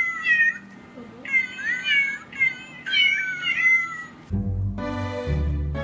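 Domestic cat meowing repeatedly, about four high, bending meows in a row. Brass music comes in suddenly about four seconds in.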